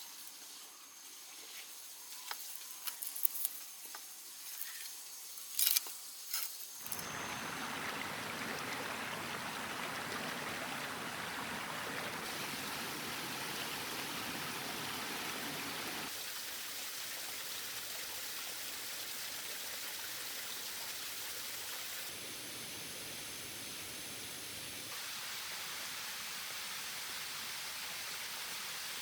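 Water pouring and splashing steadily from a small waterfall, starting suddenly about seven seconds in after a few sharp clicks and taps, its level shifting in steps a few times.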